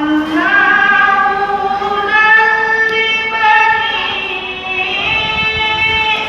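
A girl's high voice reciting the Quran in melodic tilawah style, a long phrase that rises in pitch about half a second in and is then held.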